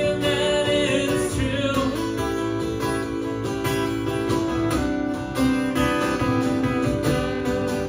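Acoustic guitar strummed along with a singing voice: a rock song played live unplugged.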